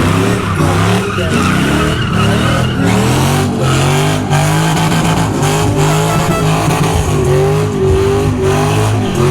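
Pickup truck engine revving hard, its pitch rising and falling, while the rear tires spin and squeal in a drift or burnout.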